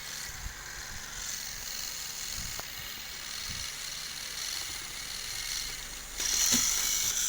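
Small electric motor of a battery-powered toy Thomas engine whirring steadily as it strains to pull, with a few faint clicks, getting louder about six seconds in.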